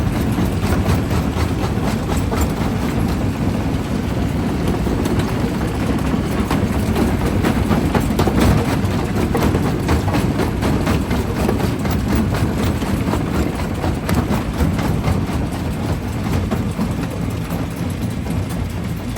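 Primary jaw crusher running under load: a steady low machinery drone with a constant stream of sharp cracks and knocks as rock is crushed between the jaws.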